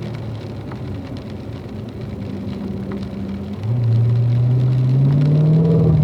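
Car engine running at light load, then about two-thirds of the way through it gets clearly louder and its pitch climbs steadily as the car accelerates out of a corner.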